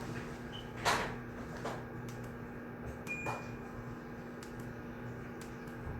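Quiet study-room ambience: a steady low hum with scattered small clicks and knocks of people at their desks, the loudest about a second in, and a brief faint high squeak about three seconds in.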